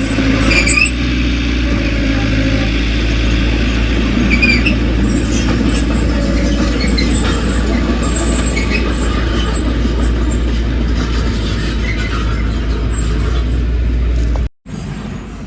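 Heavy diesel earthmoving machinery running steadily, with a few short high squeaks. Near the end the sound cuts out for a moment and comes back quieter.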